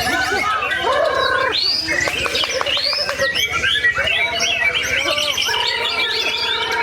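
Many caged songbirds singing over one another: a dense, unbroken tangle of whistled notes, chirps and trills.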